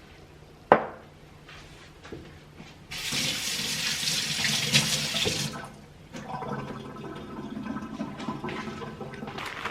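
A sharp click, then water running hard for about two and a half seconds, followed by a softer, steady stream of water pouring, as when making coffee.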